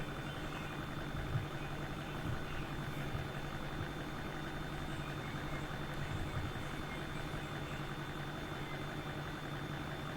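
Steady low background hum with a faint, thin high-pitched tone running through it.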